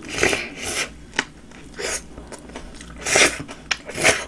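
Close-miked biting into and chewing a Subway ham sandwich on flatbread: about six short, crisp mouth noises, the loudest a bite in the first second and another just after three seconds.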